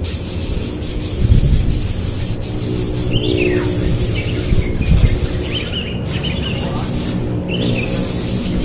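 A bird chirping: several short, high calls a second or so apart, starting about three seconds in, over a steady low rumble.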